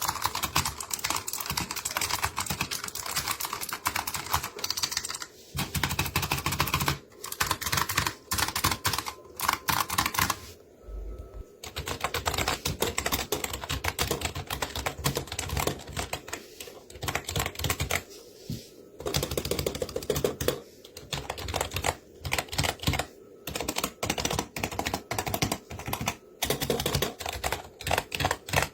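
Computer keyboards being typed on fast, one after another: a dense clatter of key clicks with several short breaks between runs.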